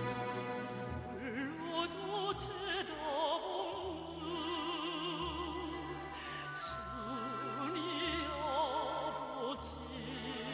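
Operatic singing with orchestral accompaniment: held chords, then a strong vibrato melody line enters about a second in and carries long, slowly moving notes.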